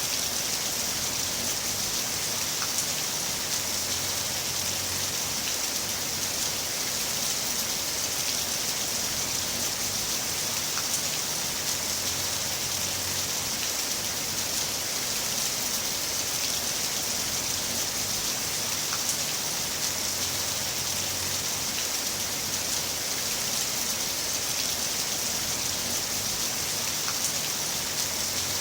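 Heavy rain falling steadily: a dense, even hiss with scattered single drops ticking through it, and a faint low rumble that swells and fades about every eight seconds.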